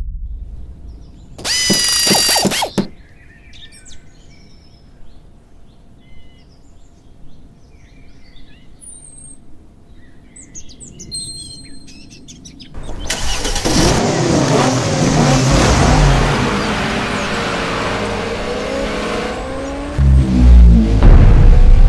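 Sound-effects track: a high whistle-like tone lasting about a second, then faint birdsong chirps, then a car engine starting and running loudly with its pitch wavering. Heavy low thuds come near the end.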